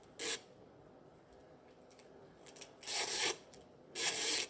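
A few short, irregular rasping rubbing strokes, scraping against something close to the microphone, with quiet gaps between them.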